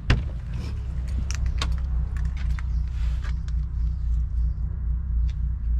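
Jeep Rubicon engine idling, a steady low rumble, with scattered light clicks and rattles over it and a sharper click right at the start.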